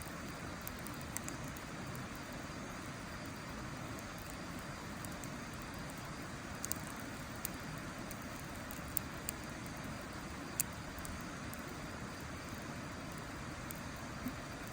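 Wood campfire crackling, with a few sharp pops scattered through it, the loudest about ten seconds in, over a steady rushing noise.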